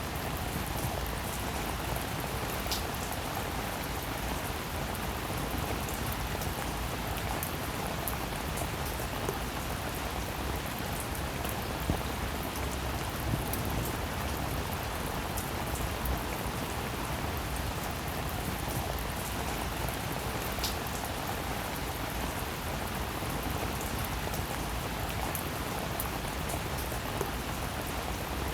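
Steady rainfall, an even patter with scattered sharper drop hits standing out now and then.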